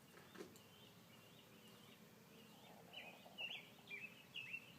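Faint, unexplained eerie sound: short wavering high notes repeating two or three times a second, growing louder about halfway through. The recorders hear it as howling, like spooky police sirens.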